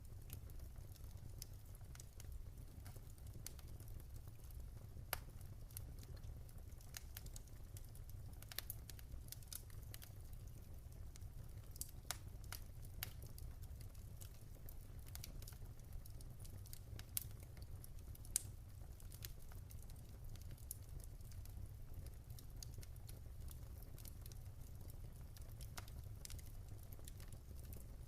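Wood fire in a fireplace crackling: irregular sharp pops and snaps over a low, steady rumble, with a few louder pops scattered through.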